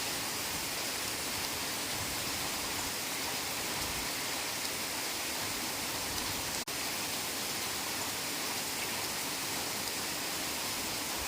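Heavy rain falling steadily in a forest, an even hiss of rain. It cuts out for an instant about two-thirds of the way through.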